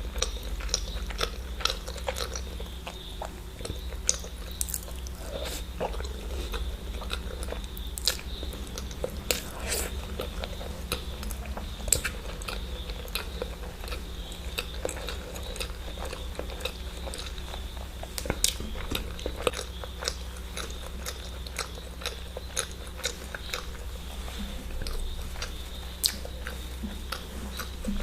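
Close-miked chewing and biting of eggs: a continuous run of irregular wet mouth clicks and smacks, over a steady low hum.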